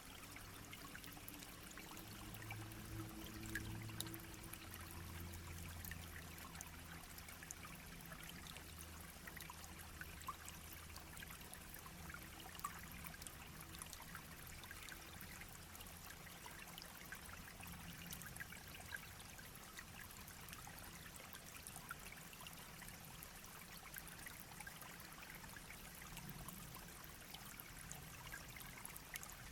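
Small shallow stream babbling and trickling over stones, a steady faint rush dotted with tiny splashes.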